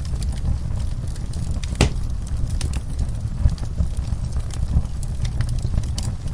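Wood fire crackling, with scattered small pops over a low, steady rumble and one louder pop about two seconds in.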